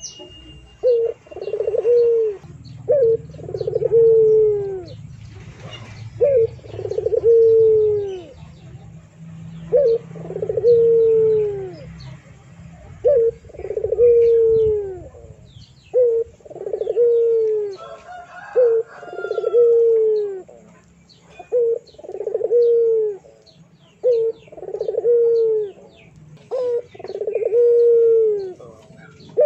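A bird's low call, a short note followed by a longer note falling in pitch, repeated over and over about every second and a half, with faint higher chirps behind it.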